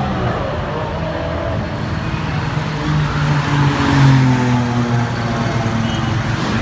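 Lamborghini Aventador LP700-4 Roadster's 6.5-litre V12 running at low revs, its note rising a little near the middle and then easing back down.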